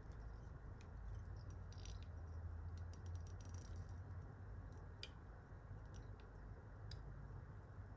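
Faint scattered clicks and light ticks of fly-tying tools and materials being handled at the vise while a hackle is wound, over a steady low hum.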